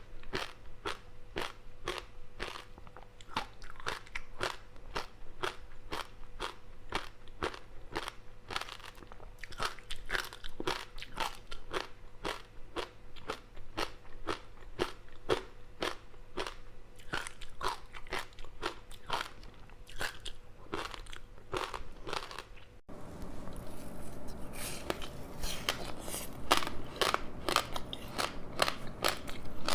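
Close-up crunching and chewing of a crispy seaweed-wrapped rice snack: dense, irregular crackles as the dry seaweed coating breaks between the teeth. About three quarters of the way through the sound cuts for an instant and resumes with more background hiss under the crunching.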